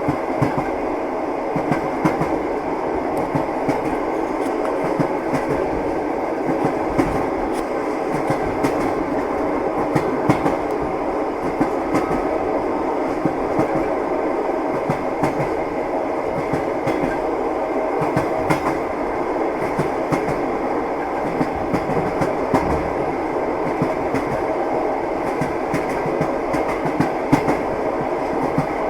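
Train wheels clattering along the rails: a steady rumble with frequent short clicks and knocks from the wheels passing over the track.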